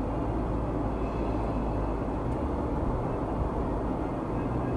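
Steady road and engine noise inside a moving car's cabin: an even low rumble with no sudden changes.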